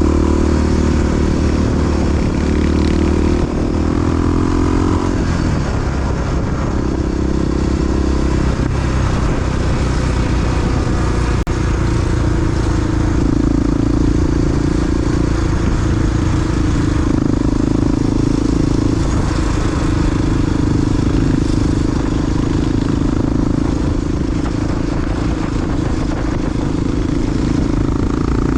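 Big single-cylinder four-stroke Honda XR dual-sport motorcycle engine running under way. Its note holds steady and then shifts in pitch several times as the throttle and gears change.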